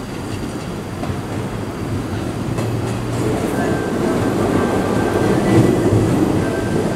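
Hanshin electric train running through the station without stopping, its wheels clicking over rail joints and the rumble growing louder. A faint steady high tone comes in about halfway.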